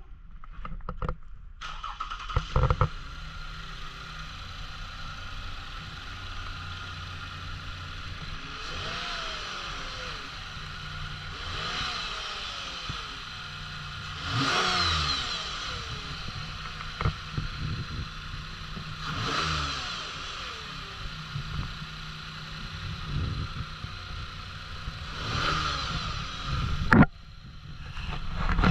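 The 2019 Lexus RX350L's 3.5-litre V6 is started, idles steadily and is blipped about five times, each rev rising and falling back to idle. It is then switched off near the end.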